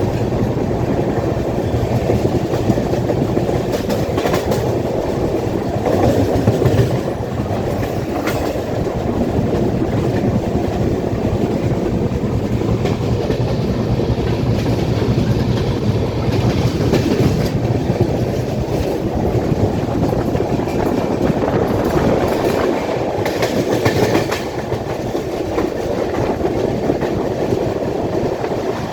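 Passenger train running on the track, heard from aboard: a steady rumble of wheels on rail with clickety-clack and a few louder clacks.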